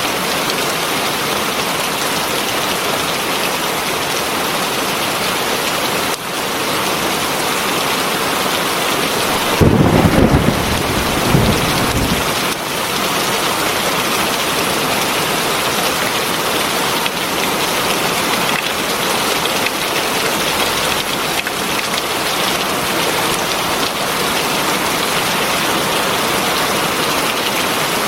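Heavy rain falling steadily on a surface, with a deep rumble of thunder about ten seconds in that lasts around three seconds.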